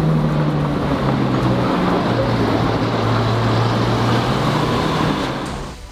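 Car engine running with a steady low drone. Its pitch eases down about two seconds in, and the sound cuts off abruptly at the very end.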